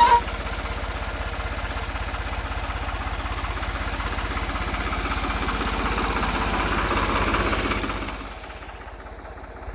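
John Deere 5060E tractor's diesel engine running with a steady, rapid chug of firing pulses. It grows a little louder, then drops noticeably quieter about eight seconds in.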